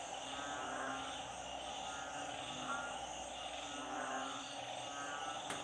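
A chorus of frogs (อึ่ง narrow-mouthed frogs and เขียด small frogs) calling over flooded ground, with short rasping calls repeating about once a second over a steady trilling background. A single sharp click near the end.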